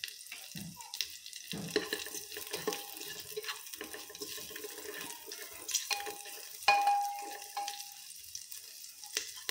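Cashews, green chilli and ginger sizzling in hot ghee in a pressure cooker, stirred with a plastic spatula that scrapes and taps against the pan.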